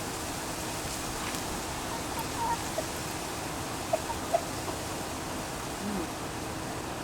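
Chickens giving a scattering of short, soft calls, about seven in a few seconds, over a steady background hiss.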